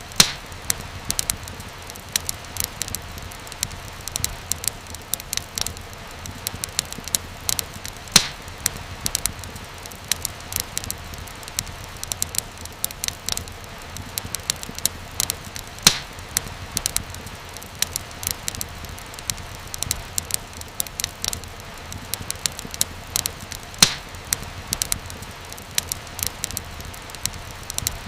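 Wood fire crackling in a fireplace: a dense stream of small crackles over a low steady rumble, with a few louder pops about every eight seconds.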